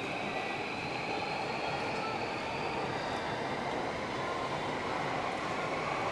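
Electric commuter train running on the tracks, its steady rumble joined by a faint whine that rises slightly in pitch, over the hiss of falling rain.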